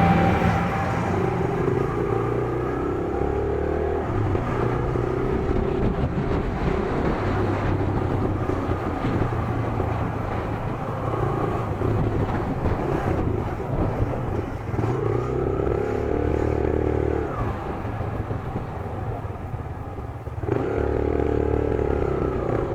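Yamaha YBR125G's single-cylinder four-stroke engine running under way, its note stepping up and down every few seconds as speed and gears change.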